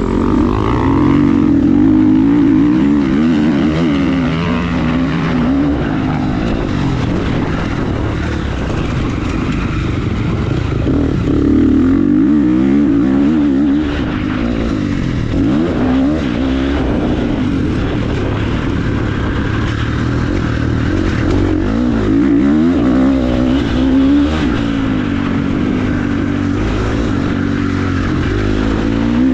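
Motorcycle engine running under changing throttle, its revs rising and falling again and again.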